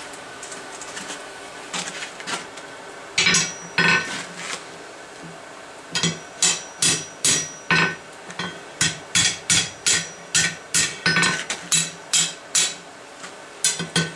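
Hand hammer striking a steel bar on an anvil, each blow with a short bright ring. It starts with a few scattered blows, then from about six seconds in settles into a steady run of about two blows a second, working the still-oval section of the poker back toward shape.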